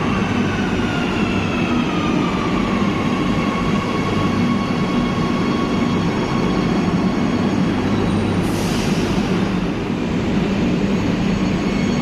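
Madrid Metro train running with a steady rumble. The electric motor whine drops in pitch over the first few seconds, as the train slows, then holds level. A short hiss of air comes about two-thirds of the way through.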